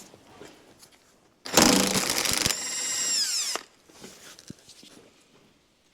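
Power tool undoing one of a VW Beetle's 17 mm body-to-floor-pan bolts: about a second of rapid hammering, then the motor winds down with falling pitch.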